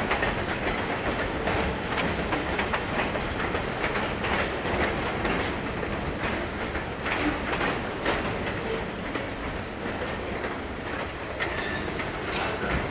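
Freight cars of Canadian Pacific train 259 rolling slowly past, wheels clicking and clattering over the rail joints, easing slightly as the last cars go by.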